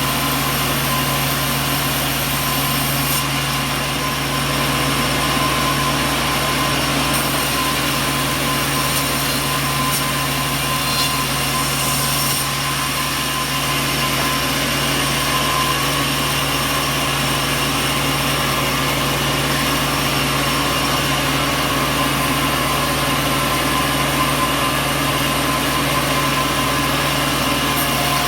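Sawmill machinery running steadily: a constant mechanical hum with a fixed low drone and a faint high whine, with no cutting strokes or impacts standing out.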